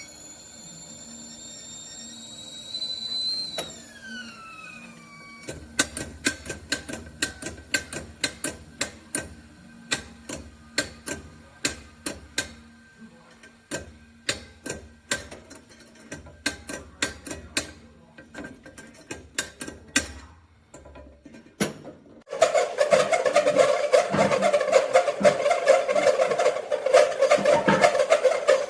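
Stainless steel whistling tea kettle giving a high-pitched squeal, not a harmonic whistle, because steam escapes past its loosely fitting lid. After about four seconds the pitch slides down and the whistle fades away. A long run of sharp clicks follows, and near the end a loud dense sound sets in.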